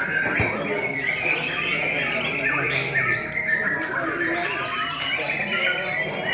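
Many caged songbirds singing and chattering at once in a continuous, overlapping chorus of chirps and trills, with people's voices underneath.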